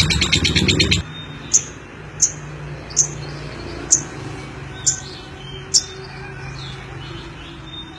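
Lovebird giving six short, sharp, high chirps, spaced just under a second apart, after a loud dense sound cuts off about a second in.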